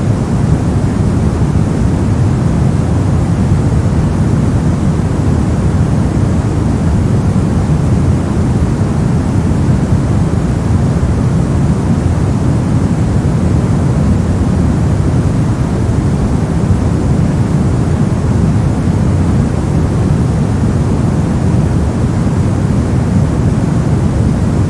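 Steady synthetic white noise, heavy in the low end, an even hiss and rumble that never changes.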